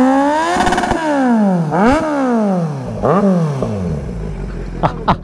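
Kawasaki Z900's inline-four engine revved with three throttle blips, the pitch climbing and falling back each time, then settling to idle. A few sharp clicks come near the end.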